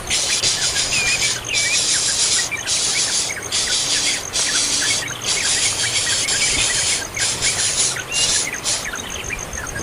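Birds chirping in many short notes over a dense, high, hissing buzz that comes in long stretches with brief breaks.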